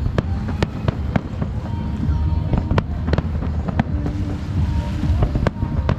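Aerial fireworks bursting in an irregular string of sharp bangs, about a dozen over a few seconds, over a continuous low rumble from the barrage.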